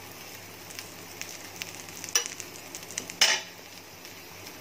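Dosa batter frying in oil on a hot flat griddle (tawa): a steady sizzle with fine crackling. Two brief louder sounds stand out, the louder one a little after three seconds in.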